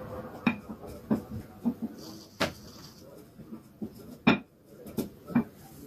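Kitchenware being handled: about ten irregular knocks and clinks of dishes and utensils, the loudest a sharp clack a little past the middle.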